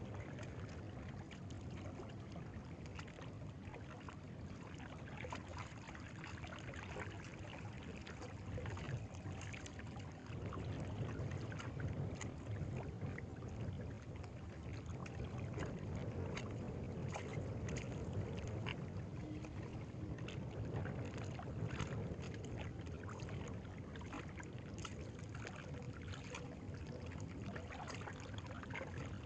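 Steady lapping of water, with wind rumble on the microphone and scattered small clicks and knocks.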